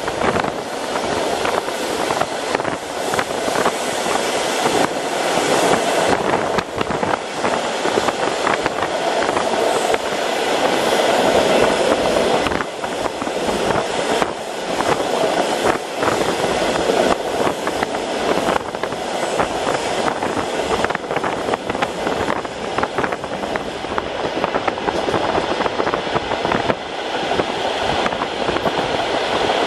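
Suburban train carriage running along the track at speed, heard from inside: a steady rumble and rush of wheels on rails with frequent scattered clicks and knocks.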